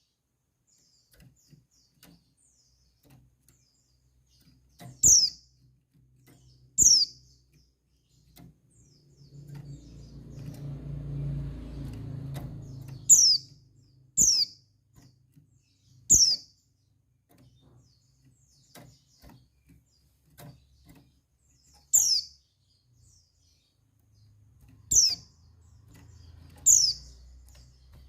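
Female white-eye (pleci) giving short, sharp, high chirps that sweep downward, eight of them at irregular gaps. This is the female's call that draws males to answer. A low rumble swells and fades in the middle.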